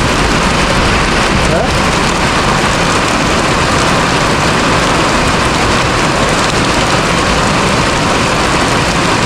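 Heavy rain pouring down steadily, a loud, dense, even hiss.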